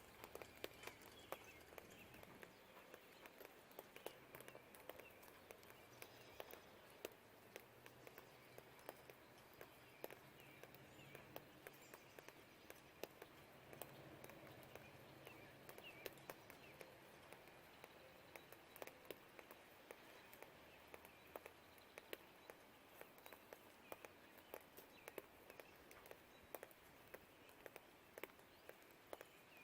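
Faint rain: irregular drips ticking on a hard surface over a soft hiss, with faint birdsong. A distant low rumble swells for several seconds near the middle.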